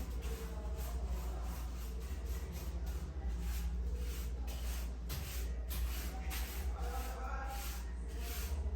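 Repeated rubbing strokes, roughly two a second, like scrubbing a surface during cleaning, over a steady low hum.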